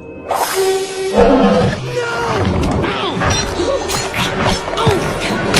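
Animated film soundtrack: dramatic music and roar-like attack effects burst in suddenly about a quarter second in and stay loud and dense, with gliding cries through them.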